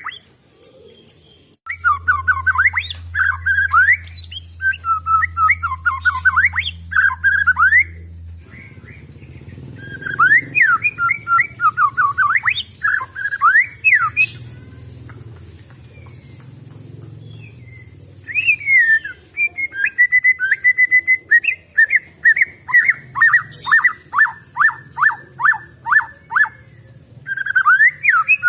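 White-rumped shama (murai batu) singing: bursts of varied whistled phrases broken by short pauses, with a fast run of evenly repeated notes near the end. A steady low hum sits under the song in the first few seconds.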